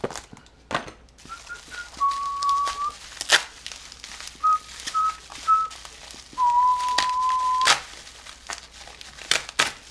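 A person whistling a few short and held notes, with packaging crinkling and sharp rustles of paper and plastic between them.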